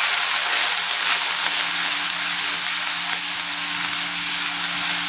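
Onion-tomato masala with freshly added spice powders frying in hot oil in a non-stick kadhai, stirred with a wooden spatula: a steady frying hiss.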